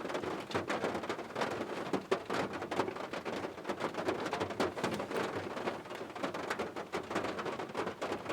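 Steady rain, a dense stream of irregular drops hitting a nearby surface.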